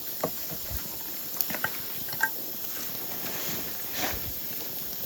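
Campfire of damp wood crackling and hissing, with scattered irregular pops over a steady hiss.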